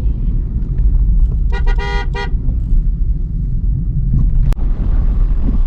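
Vehicle horn sounded in a quick burst of short toots about a second and a half in, over the steady low rumble of a car driving on a mountain road.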